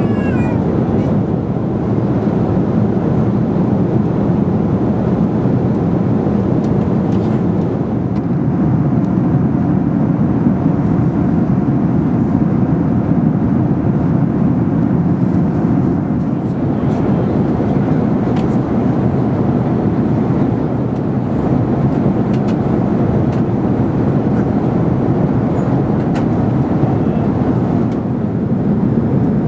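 Steady cabin noise inside an Airbus A380 in flight: a low, even rush of airflow and engines, with a few faint clicks.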